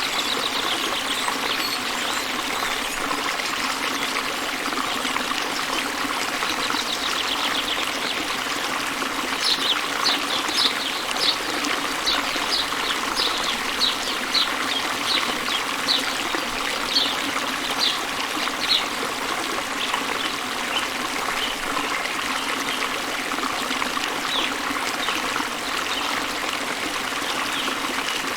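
A small waterfall and river flowing with a steady rush of water. A bird sings a run of short, high repeated notes, about two a second, from about ten to nineteen seconds in.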